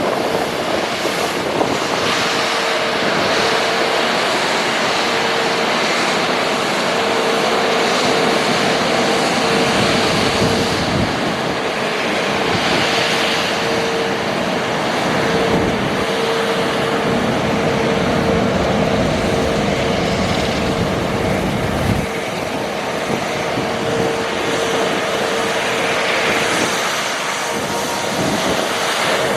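Bucher V65 truck-mounted sweeper at work: a loud, steady rushing noise, typical of a suction fan and brushes running over the truck's engine, with a steady mid-pitched hum that breaks off briefly every second or two.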